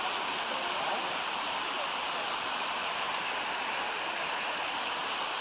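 Water from a cascade of mountain-stream waterfalls rushing, a steady, even rush.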